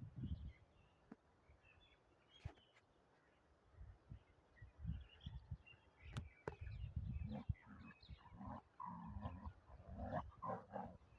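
A dog growling in low, uneven bursts that come and go, with a few sharp clicks between them.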